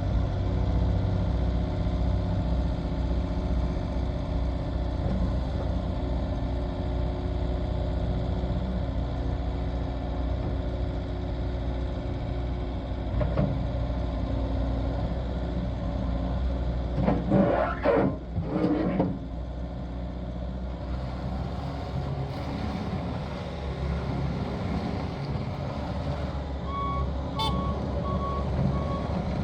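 Bobcat T590 tracked skid steer loader running, its 2.4 L four-cylinder turbo diesel working steadily, with two loud harsh bursts about two-thirds through. Near the end its reversing alarm starts beeping in an even on-off rhythm.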